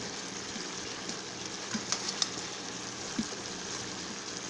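Chicken thighs with chopped peppers and onions sizzling in a skillet: a steady hiss with a few small pops.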